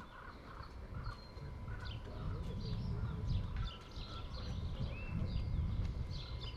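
Birds chirping in many short, scattered calls, over a low uneven rumble.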